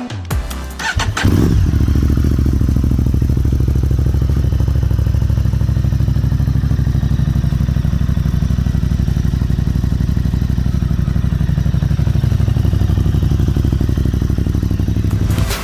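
Aprilia Tuono 660's parallel-twin engine idling steadily through an Akrapovic full exhaust, after a few brief knocks in the first second.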